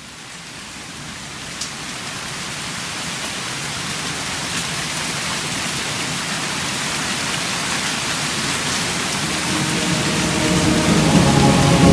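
Steady hiss of rain fading in, growing louder throughout. Near the end, a sustained musical drone begins to rise under it.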